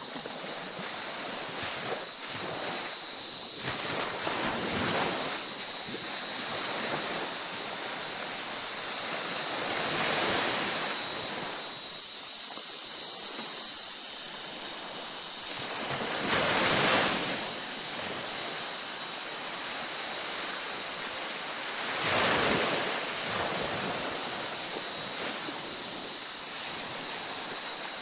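Ocean waves washing onto a beach: a steady surf hiss that swells as each wave breaks, about every five to seven seconds, the loudest surges a little past the middle and about three-quarters of the way through.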